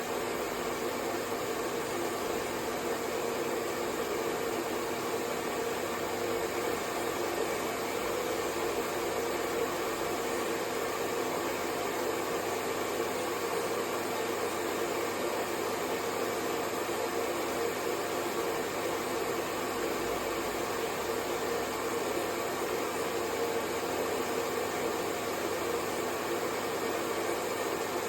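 Hair dryer running steadily: an even rush of air with a faint, unchanging hum from its motor.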